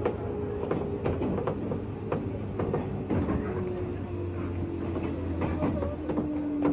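Ride inside a JR West 201 series electric train's motor car as it slows to a stop: a whine falls steadily in pitch over a low hum, with the wheels clicking over rail joints.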